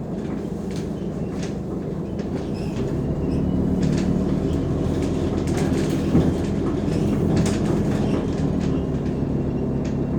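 Mercedes-Benz O345 Conecto G articulated bus under way: its diesel engine runs with a steady drone while the body rattles and clicks throughout. The engine grows louder about three seconds in, and there is a single sharp knock near the middle.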